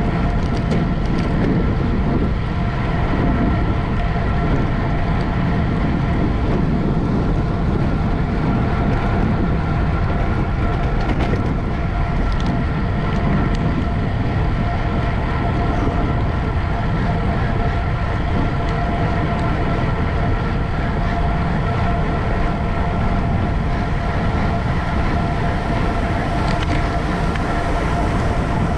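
Steady rush of wind and road rumble from a racing bicycle in motion, with a faint constant whine from the drivetrain or tyres, heard through a bike-mounted camera's microphone.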